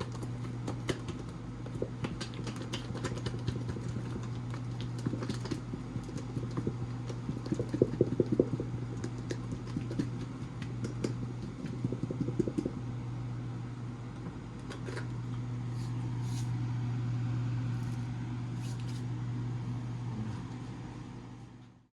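Steady low hum of a fan running, with scattered clicks and clatter of utensils and dishes being handled while cooking, busiest about eight and twelve seconds in. The sound cuts off abruptly just before the end.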